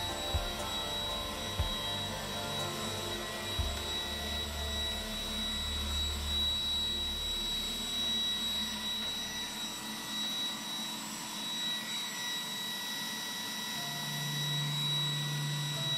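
iRobot Roomba 980 robot vacuum running with a steady whine from its vacuum motor and brushes. A few sharp knocks come in the first few seconds.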